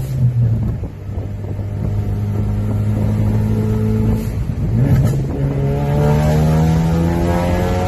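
Tuned Ford Focus RS's turbocharged 2.3-litre four-cylinder running at a steady pitch, then, after a brief dip about five seconds in, its revs climb slowly as the car accelerates.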